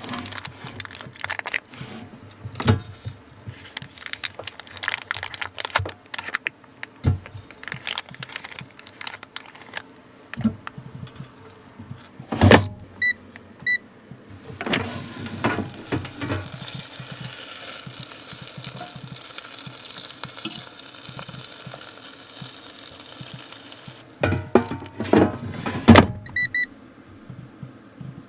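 Handling clatter and clicks as an air fryer is loaded, then two short electronic beeps from its control panel, after which its fan runs with a steady hiss for about ten seconds. Near the end more knocks and a few more short beeps.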